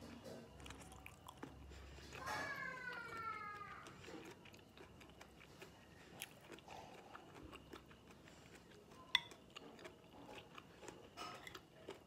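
Faint closed-mouth chewing of sauced pig colon: soft, wet mouth clicks. About two seconds in, a high, drawn-out call falls in pitch over about a second and a half. A single sharp click comes about nine seconds in.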